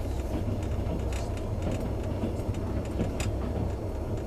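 Passenger train running, heard from inside the carriage: a steady low rumble with a few scattered light clicks.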